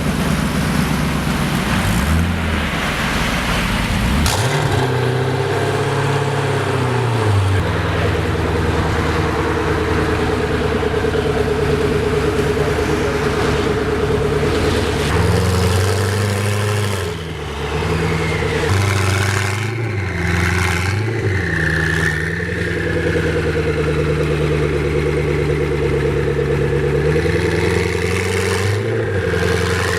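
Koenigsegg supercar's V8 engine running, with several short revs whose pitch rises and falls.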